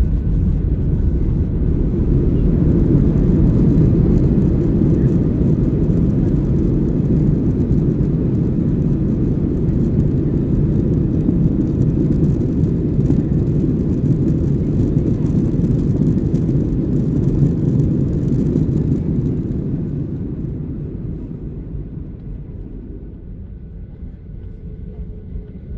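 Boeing 737-800 cabin noise during landing: a loud, steady low rumble of the jet's engines and airflow that dies away over the last few seconds as the aircraft slows.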